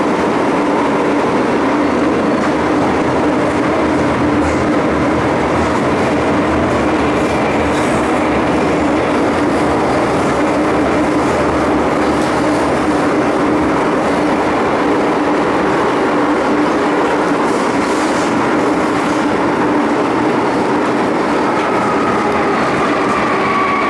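MTR Island Line M-Train running through an underground tunnel: a loud, steady rumble of wheels and rails with a steady motor whine, and a few faint clicks from the track. Near the end the whine slides down in pitch as the train starts to slow.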